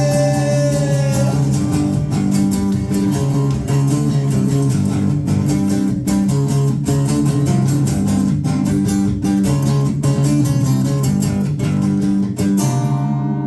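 Live band playing an instrumental passage: strummed guitars over bass guitar in a steady rhythm. A held sung note dies away about a second in.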